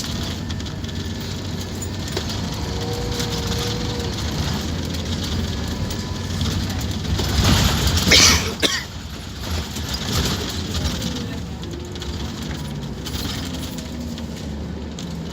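Scania K230UB Omnilink bus running steadily with engine and road noise, heard from on board. About halfway through comes a loud hiss lasting about a second, followed by a sharp click.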